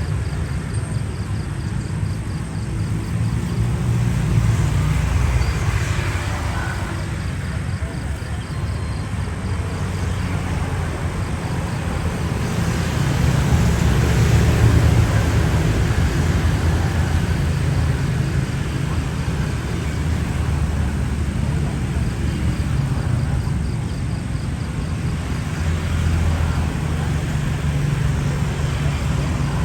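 Boeing 787-10 Dreamliner's jet engines running at taxi power: a steady low rumble that swells a few seconds in and again about halfway through.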